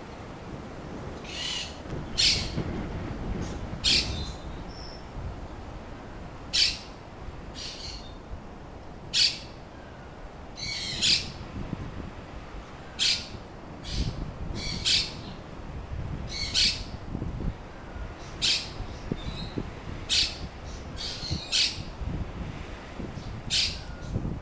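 A bird calling over and over in short, sharp, high calls, about one every one to two seconds and sometimes two in quick succession, over a low, steady rumble.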